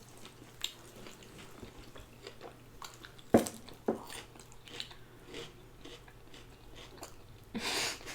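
Close-up eating sounds: chewing and crunching of food, with scattered small mouth clicks. A sharp crunch about three and a half seconds in is the loudest, and there is a longer crunchy burst near the end.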